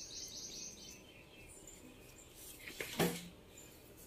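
A bird's rapid, high chirping trill in the first second, then a single short, sharp sound about three seconds in, the loudest moment.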